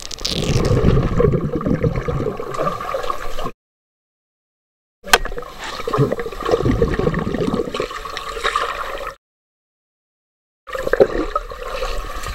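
Swimming-pool water splashing and bubbling, in three stretches broken by two abrupt silent gaps.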